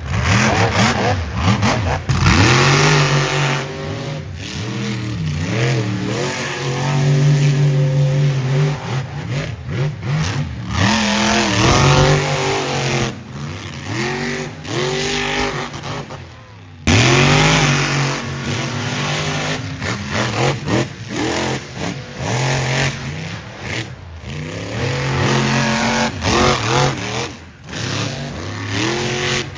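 Monster truck engine revving hard, its pitch climbing and falling again and again, cut off abruptly about 17 seconds in before the revving resumes.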